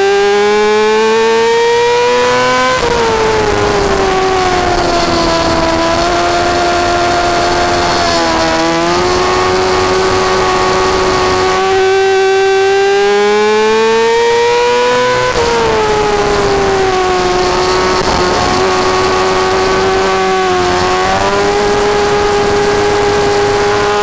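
Yamaha R6 sport bike's 600 cc inline-four engine running at high revs, heard onboard at racing speed. The pitch climbs under acceleration, drops sharply twice and sinks away, holds steady through long stretches, and wobbles briefly twice.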